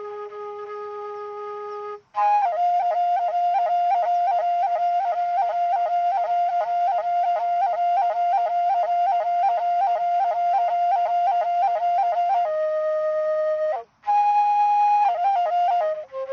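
Background music: a flute-like woodwind melody. It plays a held note, then a long stretch of rapid repeated notes on one pitch, then a shorter held note, with two brief breaks.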